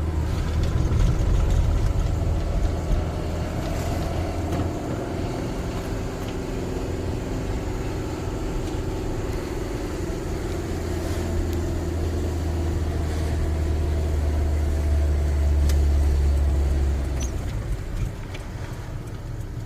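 Vehicle engine and road noise while driving, a low drone that eases about five seconds in, builds again and falls away near the end.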